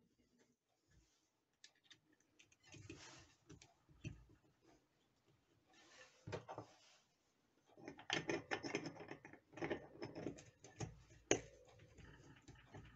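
Irregular clicks, taps and rustling from something being handled at close range, busiest in the second half, with one sharp knock about eleven seconds in.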